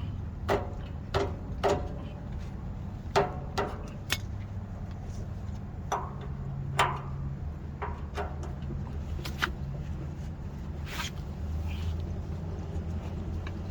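Adjustable wrench clinking against the nut of a boat trailer wheel hub as it is worked loose: a dozen or so sharp metal clicks and knocks at uneven intervals, over a steady low rumble.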